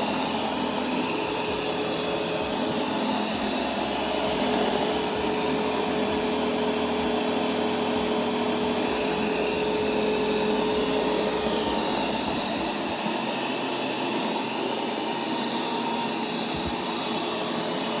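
Roborock Q10V+ robot vacuum running steadily through a cleaning pass, its suction motor and brushes giving a continuous whir with a steady hum.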